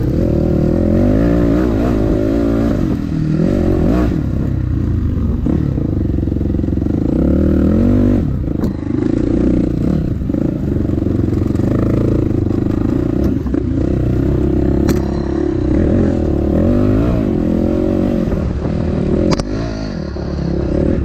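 Dirt bike engine rising and falling in pitch as it is ridden, with clatter and a few sharp knocks.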